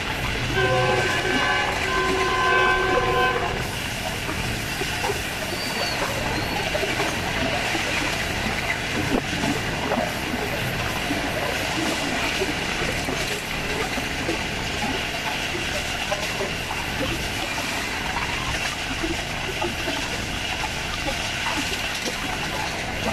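Express passenger train running fast on jointed track, heard from aboard. The leading GEU 20 diesel locomotive's horn sounds a multi-tone chord for about three seconds near the start, then there is steady rolling noise with the wheels clacking over the rail joints.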